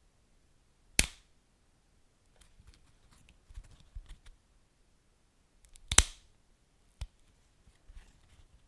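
Wood fire crackling, with sharp pops about a second in and six seconds in and a smaller one a second later, between scattered light crackles.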